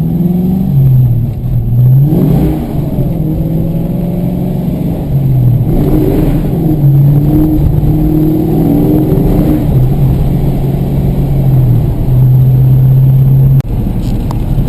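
Car engine running while driving, its pitch rising and falling as the car speeds up and eases off, over low road rumble. The engine tone breaks off abruptly about a second before the end.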